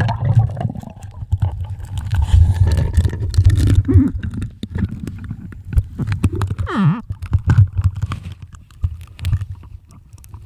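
Low, uneven rumbling aboard a small sailboat, most likely wind on the microphone, with scattered knocks and a short falling squeal about seven seconds in.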